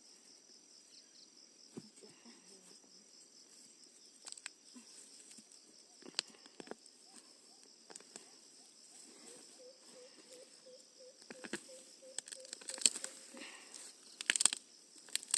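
Quiet outdoor ambience with insects, crickets by the sound of it, chirping steadily in a high band. Scattered clicks and knocks come through it, and from about ten seconds in there is a short run of low pulsed calls at about three a second.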